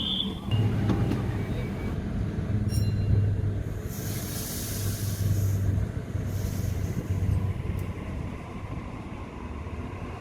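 Sydney electric suburban train running at the station platform with a steady low rumble. A loud burst of hiss comes about four seconds in and a shorter one about two seconds later.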